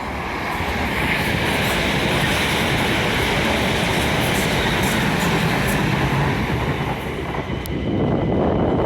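A train running past on the rails: a loud, steady rumble of wheels and running gear.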